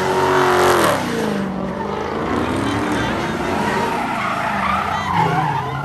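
A car engine revving hard, its note dropping sharply about a second in and then rising and falling again, over tyres squealing and skidding, as in a burnout or donuts.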